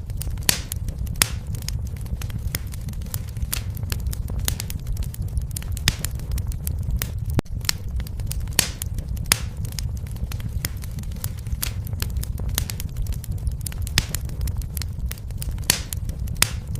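Wood fire in a fireplace crackling and popping: a steady low rumble of flames under irregular sharp snaps, a few of them loud pops.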